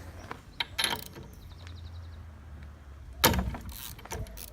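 Socket ratchet clicking as a spark plug is unscrewed from an Evinrude 4 hp outboard's cylinder head, with a quick run of ratchet ticks near the middle. There are metallic clinks of the tool throughout and a louder knock about three seconds in.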